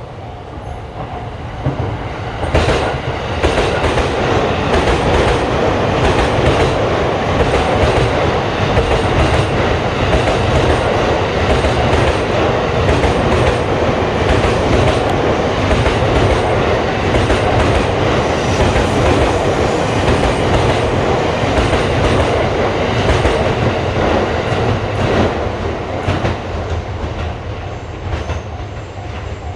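Electric train passing close by, its wheels clicking over the rail joints. The sound swells sharply about two seconds in, holds for some twenty seconds and fades near the end.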